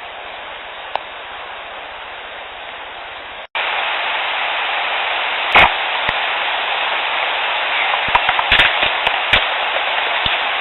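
Playback of an outdoor trail-recorder recording: steady hiss with scattered sharp clicks and pops. About three and a half seconds in it cuts to a louder clip where the clicks come more often, the loudest a couple of seconds after the cut. The recordist takes the snaps and pops for mouth sounds made by a Sasquatch near the recorder.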